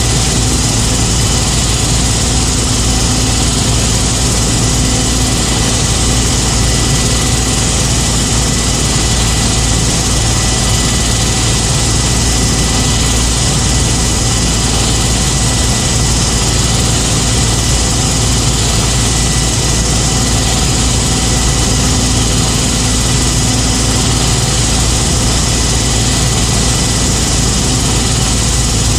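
An engine running steadily at idle, with no change in speed, and a thin steady high tone over it.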